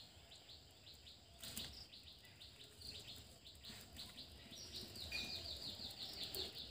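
Faint bird chirping, with a quick run of short high chirps near the end, over soft rustling as dry sticks are pushed into a clay stove.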